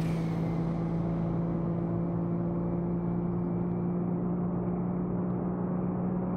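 Tuned Daihatsu Copen GR Sport's turbocharged 660cc three-cylinder engine running flat out at steady high revs during a standing-start 1,000 m acceleration run: a constant drone that holds one pitch and level, with no gear change.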